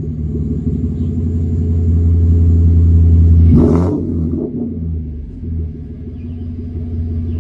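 Ford Explorer's naturally aspirated 3.5-litre V6 running through a catless straight-pipe exhaust with a Magnaflow muffler. It idles with a steady low rumble, gets a quick throttle blip about halfway through, then drops back to idle.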